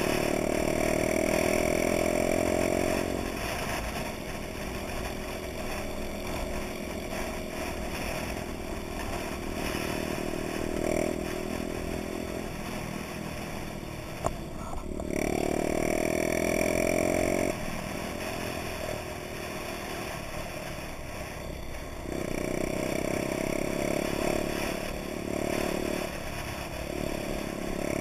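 Honda Dax mini bikes' small four-stroke single-cylinder engines running on the move, the throttle opened and eased so the engine note rises and falls several times. There is a single sharp click about halfway through.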